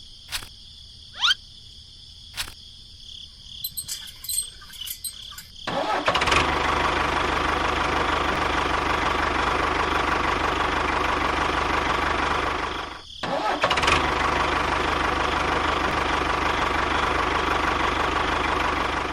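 A few short rising chirps and clicks, then a small motor starts about six seconds in and runs steadily. It stops briefly a little past halfway and then starts again.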